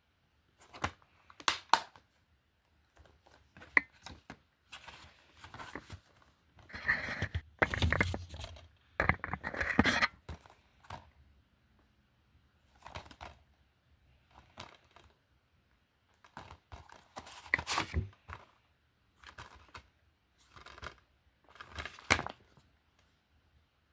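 Plastic DVD and Blu-ray cases being handled: irregular clicks and knocks with short bursts of rustling as cases are picked up, shifted and set down.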